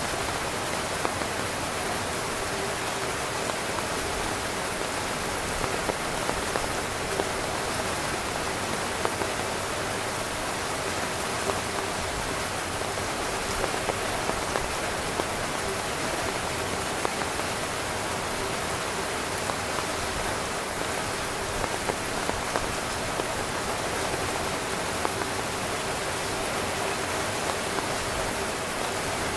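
Heavy rain falling steadily on a camping tent's fabric, many separate drop hits standing out from a constant patter.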